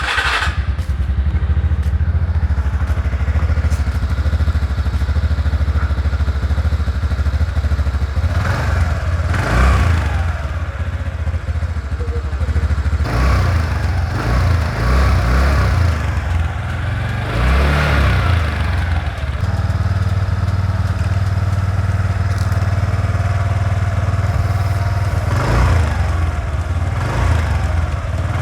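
The single-cylinder engine of a TVS Ntorq 125 scooter starts up right at the beginning and idles steadily on freshly changed 10W-30 oil. The throttle is blipped about four times, each rev rising and falling back to idle.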